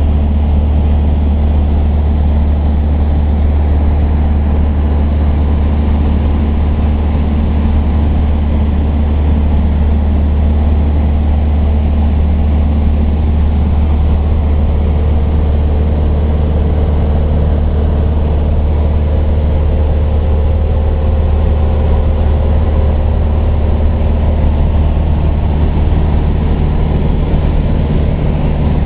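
Cessna light aircraft's piston engine and propeller droning steadily in flight, a loud, deep, unbroken hum.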